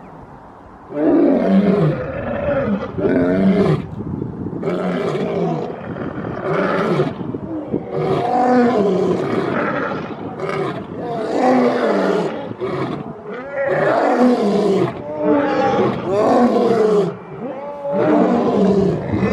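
Lion roaring: a long run of deep calls, each about a second long and mostly falling in pitch, one after another with short breaks.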